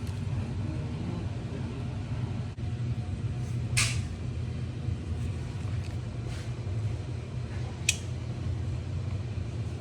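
A motor running with a steady low hum, broken by two short sharp clicks about four seconds apart.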